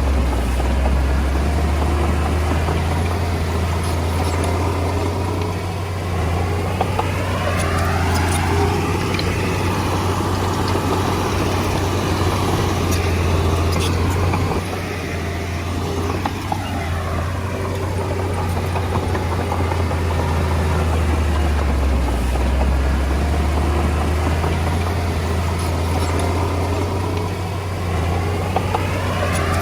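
Komatsu D20A bulldozer's diesel engine running steadily at work, a heavy low drone throughout. Its tone sweeps and shifts about every ten seconds as the machine moves back and forth.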